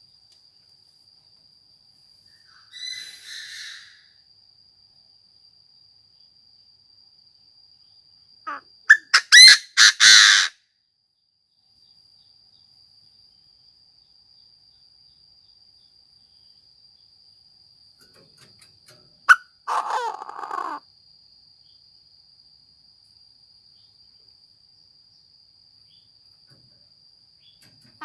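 Chinese francolin calling in short bouts of rapid, harsh repeated notes: a faint bout about three seconds in, a loud one about nine seconds in, and another about twenty seconds in. Between bouts a faint steady high insect trill carries on.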